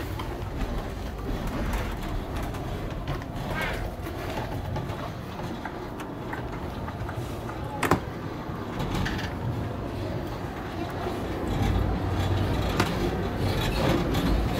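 Inside an Amtrak Coast Starlight sleeper car with the train under way: the steady rumble of the car running over the track, with rattles and knocks. There is one sharp knock about eight seconds in, and the rumble grows louder near the end.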